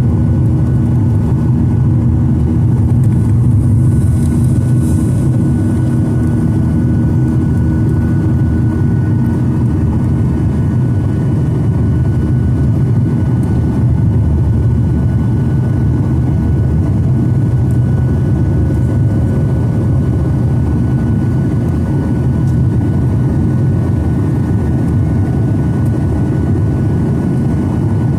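Steady cabin noise of a Boeing 737-900ER in flight: the drone of its CFM56 turbofans and the rush of air past the fuselage, heard from inside the passenger cabin. A low hum within it fades about ten seconds in, and a faint steady whine sits above.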